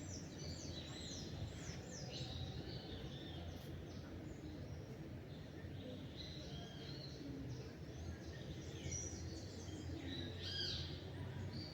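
Several songbirds chirping and singing in a dawn chorus, with quick falling chirps that come thickest near the start and again late on, over a steady low rumble of background noise.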